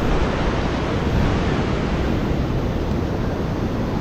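Ocean surf and wind, with the wind rumbling on the microphone, steady throughout.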